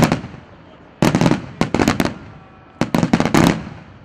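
Fireworks going off in volleys of rapid, sharp bangs, three clusters in quick succession, each dying away in echo.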